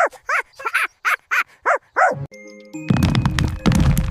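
A cartoon dog barking in a quick, even run of about seven short barks, each falling in pitch. About two seconds in the barking stops and music takes over, with held tones and, from about three seconds in, heavy regular thuds.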